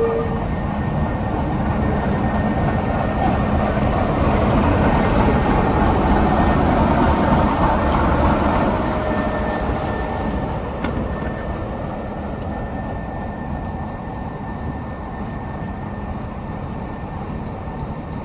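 A train passing at speed, its rumble and rail noise swelling to a peak about halfway through and then slowly fading as it draws away.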